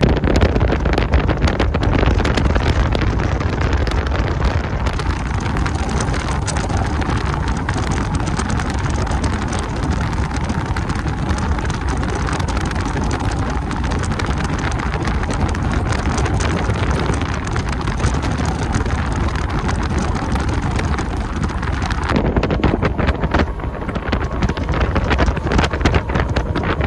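Wind buffeting the microphone over the steady rush and rumble of a boat moving at speed through the water.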